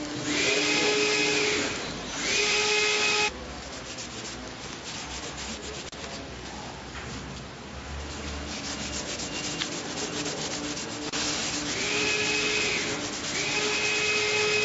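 A factory machine running in short cycles of one to two seconds each, a loud hiss with a steady whine that bends in at the start and out at the end, twice near the start and twice near the end. A fainter machine noise runs in between.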